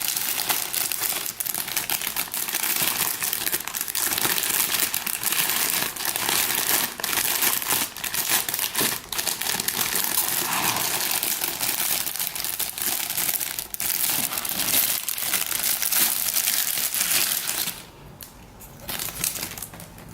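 Plastic packaging crinkling and crackling steadily as resin model kit parts are handled and unwrapped, dying down near the end.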